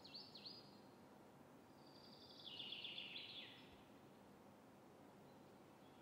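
Faint small-bird calls over quiet room tone: a few quick high chirps that slide down in pitch at the start, then a rapid high trill lasting about a second, some two and a half seconds in.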